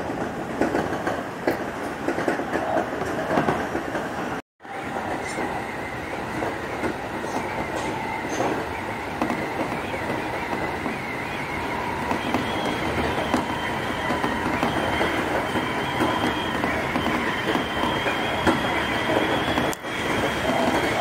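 Seibu Shinjuku Line commuter train running between stations, heard from inside the car: steady rumble and wheel-on-rail noise. A thin, steady high whine comes in about halfway through. The sound cuts out for a moment about four seconds in.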